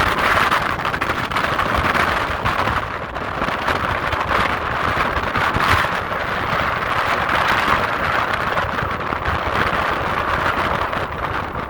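Strong wind buffeting a phone's microphone in gusts, a loud rushing roar that swells and dips unevenly.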